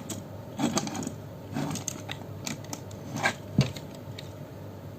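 Hard plastic parts of a small model-kit figure clicking and tapping as it is handled and turned over, in a few short clusters of light clicks.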